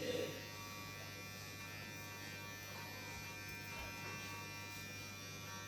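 Electric hair clippers running with a steady buzz while cutting and blending a boy's hair.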